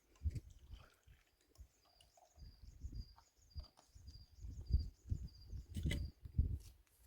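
A small bird chirping in a quick run of short high notes, over irregular low thumps and a sharp click near the end.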